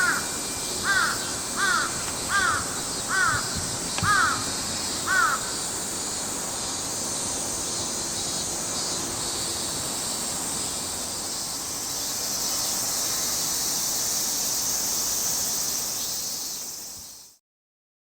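A crow cawing seven times in a quick series, a little faster than one caw a second, over a steady high hiss of outdoor background; the sound fades out to silence near the end.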